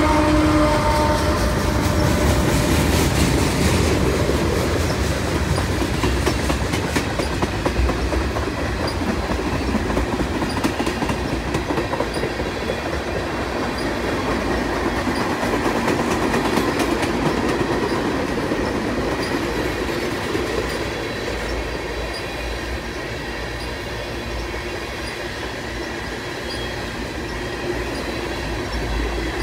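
Freight train's boxcars and tank cars rolling past: a steady rumble with the wheels clattering over the rails, easing off slowly. In the first second a droning tone from the locomotive that has just passed fades out.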